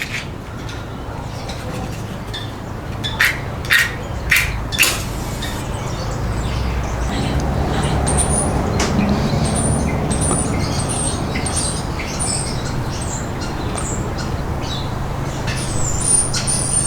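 Small bird chirping, short high notes repeating every half second or so from about eight seconds in, over a steady low rumble. A few seconds in come five sharp clicks in quick succession.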